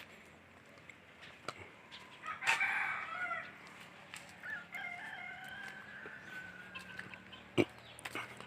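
A rooster crowing once, one long call of several seconds that is loudest at its start, with a sharp knock near the end.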